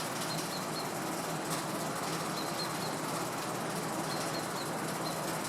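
Steady outdoor background hiss with faint, short high chirps of small birds now and then.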